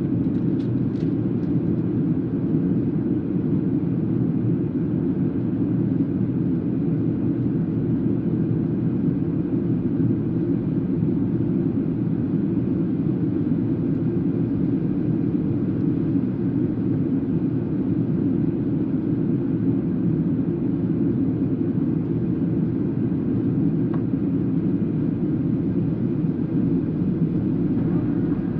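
Boeing 737-800 airliner on approach, a steady, unchanging drone of engines and airflow with most of its weight low down.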